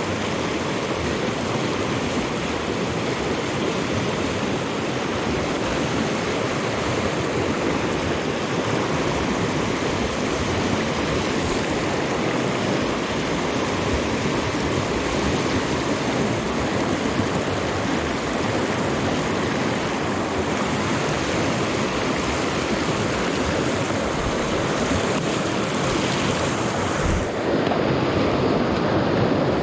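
Steady rush of flowing stream water, a little louder near the end.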